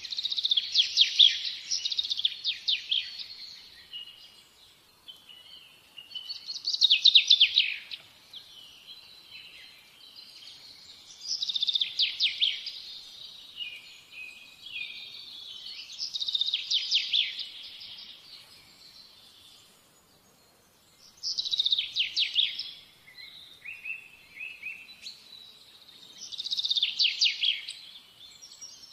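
Songbird singing: about six phrases of rapid trills and chirps, each around two seconds long, repeated roughly every five seconds.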